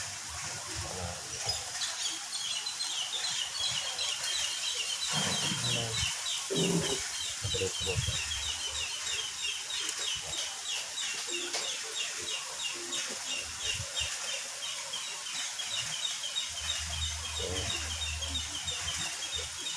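Bird chirping in the background: a rapid, steady string of short, high notes that starts about a second and a half in and keeps going.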